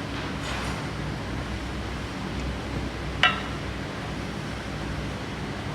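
A single sharp metallic clink about three seconds in, as a metal part or tool is handled during engine reassembly, over a steady low hum.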